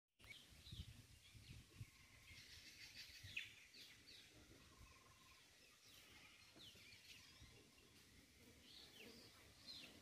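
Faint outdoor ambience of small birds chirping, with short quick calls scattered throughout. Low thuds come in the first two seconds or so.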